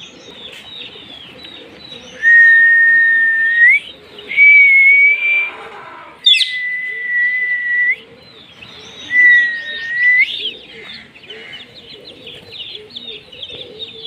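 Many caged birds chirping nonstop, with four loud, long, steady whistles, each held for a second or more and ending in a quick upward sweep. A sharp click comes about six seconds in.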